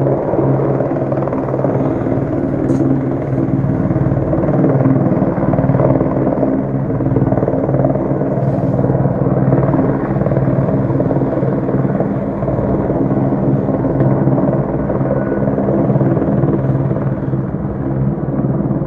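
Helicopter hovering, its rotor and turbine running with a steady, even drone.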